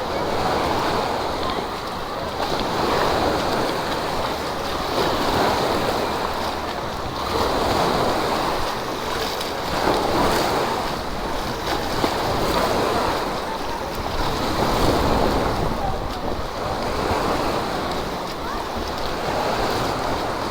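Rushing, splashing water at a water park, swelling and easing every few seconds, with faint voices in the background.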